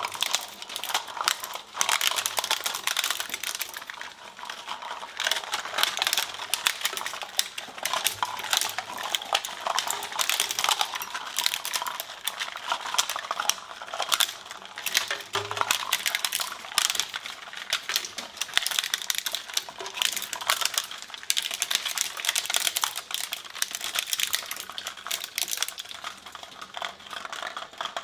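A shredder crushing material: a dense, continuous crackle of rapid clicks and crunches that never lets up.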